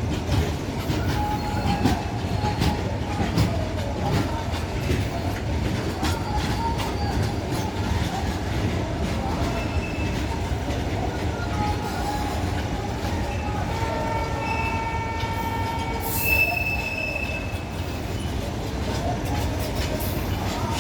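Freight train wagons rolling along the track: a steady low rumble with rapid wheel clicks and high wheel squeals. About two-thirds of the way through comes a held tone in several pitches.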